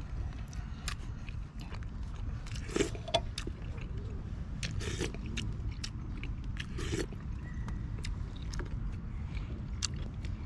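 Scattered small clicks and rustles over a steady low rumble, with a few brief faint voice-like sounds.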